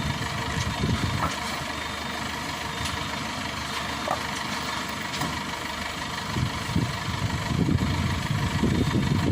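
Maxxi Bimo 102 combine harvester's engine running steadily, with a thin high whine over it. The low rumble grows louder and more uneven over the last few seconds.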